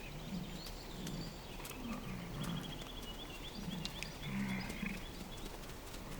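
American bison giving a series of short, low grunts, about eight in all, with faint high chirps in the background.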